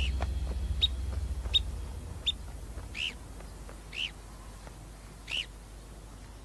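Birds calling: four short, sharp chirps about three quarters of a second apart, then three longer calls that rise and fall, a second or so apart. A low music drone fades out during the first two seconds.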